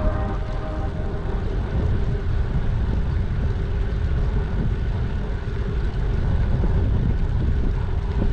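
Wind rushing over the microphone while riding a bicycle: a steady low rumble with a fainter hiss above it.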